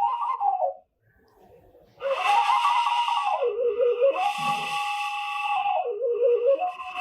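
Washint, the Ethiopian end-blown bamboo flute, playing a breathy melody of long held notes broken by quick trilling ornaments on lower notes. The playing stops for about a second near the start, then resumes.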